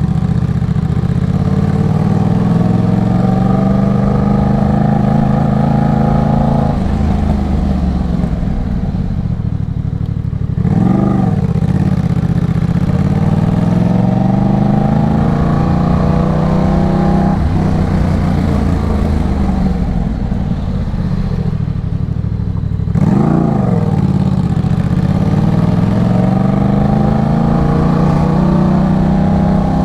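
Yamaha MT-07's 689 cc parallel-twin engine running through an aftermarket Arashi exhaust while riding, its pitch rising and falling as it accelerates and eases off. Its note breaks sharply twice, about 11 and 23 seconds in.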